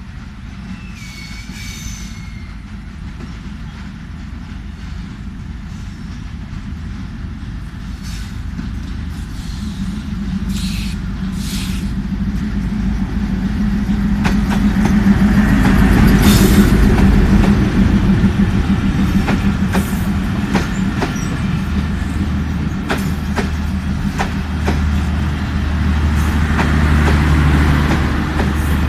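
Passenger train approaching and running past, growing louder to a peak about halfway through and then staying loud, with a low rumble and the sharp clatter of wheels over rail joints.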